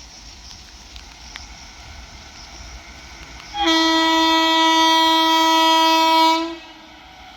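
Indian Railways locomotive horn sounding one long steady blast of about three seconds, starting about halfway in and stopping abruptly, over a faint steady hiss of rain.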